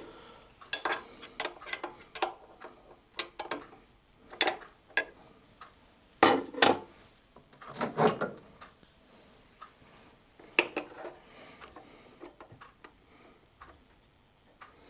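Metal tools and workholding parts being handled at a milling machine: irregular clinks and knocks, with a few heavier clunks in the middle and fewer, lighter taps near the end.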